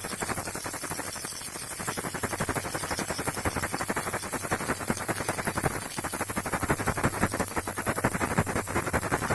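Baby rattle shaken without pause: a dense, fast patter of small rattling clicks, a little louder in the second half, over a steady high hiss.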